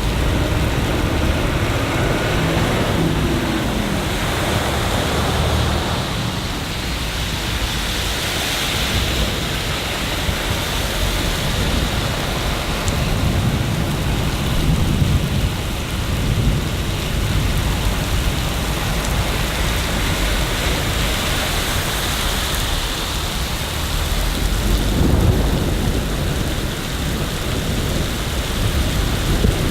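Steady rain falling in a city, a constant hiss, with deep rumbles that swell and fade a few times, strongest about halfway through and again near the end.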